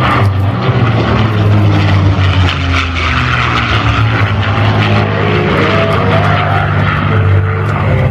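A P-51 Mustang's Packard-built Rolls-Royce Merlin V-12 engine running loud and steady, its pitch sliding down about two seconds in.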